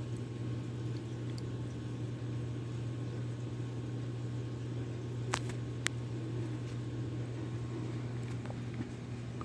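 Cornucopia 52-inch ceiling fan running with a steady low motor hum, and two short sharp clicks a little past the middle.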